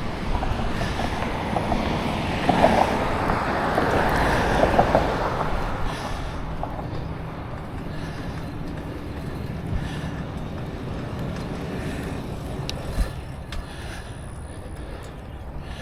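Wind rushing over a neck-mounted action camera's microphone together with bicycle tyre and drivetrain noise while riding. It is louder for the first six seconds, then eases off, with a few faint clicks near the end.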